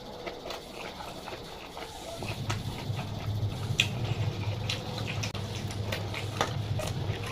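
Close-miked chewing and lip-smacking, a run of short wet clicks from the mouth. A low steady hum comes in about two seconds in and carries on underneath.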